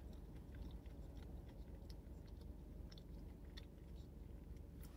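A person chewing food, faint irregular mouth clicks over a low steady hum.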